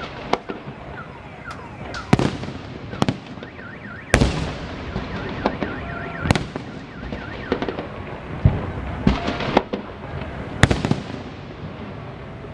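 Fireworks salute: shells bursting in loud bangs about once a second, each echoing away, with crackling between them.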